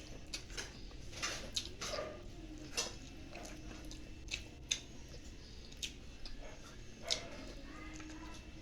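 Scattered light clicks and taps at irregular intervals, about ten in all, like utensils and dishes handled while eating at a table.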